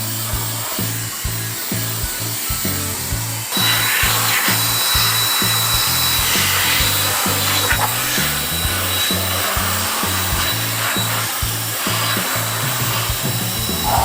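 COLBOR AirMaxx A1 handheld mini jet fan blowing air under background music with a steady beat. About three and a half seconds in the fan gets louder and a high, steady motor whine sets in and holds.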